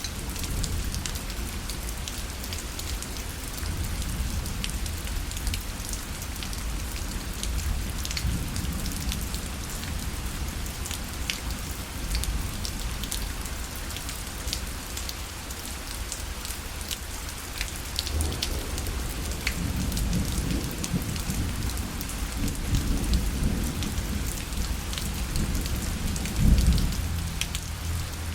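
Steady rain falling on a fabric parasol, with many separate drops ticking on the canopy. A low rumble swells in the second half, loudest near the end.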